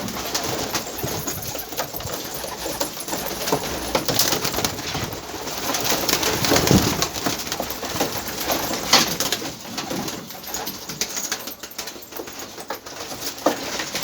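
Domestic pigeons cooing, among many small clicks and rustles. A deeper, louder coo comes about seven seconds in.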